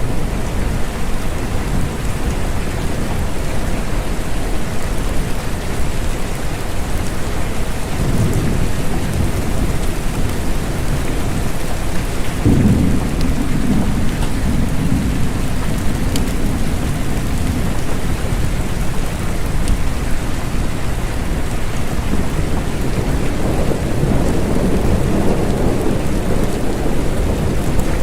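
Rain falling steadily with rolls of thunder: a low rumble about eight seconds in, a stronger one that starts suddenly near the middle and rolls on for several seconds, and another building near the end.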